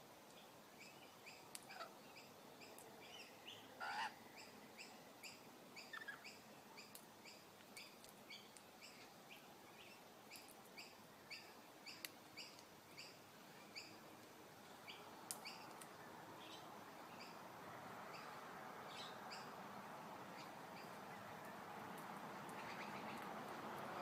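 Faint bird calling: a run of short, evenly spaced chirps, about two a second, through the first half, with a few sharper calls mixed in. A soft rushing noise swells toward the end.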